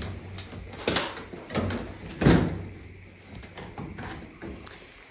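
Knocks and clunks of a Samsung dryer's panels and parts being handled while it is taken apart: three sharper knocks in the first half, then lighter taps.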